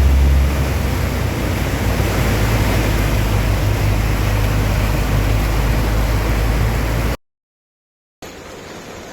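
Heavy rain pouring down: a loud, steady hiss with a deep rumble underneath. It cuts to silence for about a second near the end, then comes back quieter.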